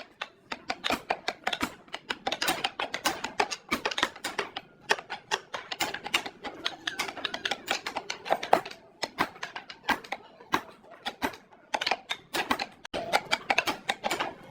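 Rapid, irregular clicks and taps, several a second, in a small room.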